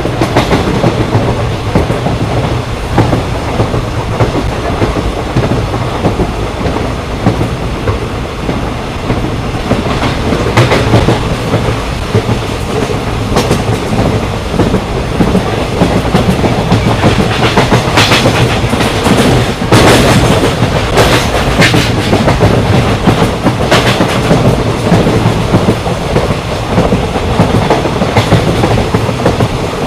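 Moving Indian Railways express passenger train: steady wheel and carriage rumble with clickety-clack from the rail joints. Clusters of sharp clicks come about a third of the way in and more densely past the middle.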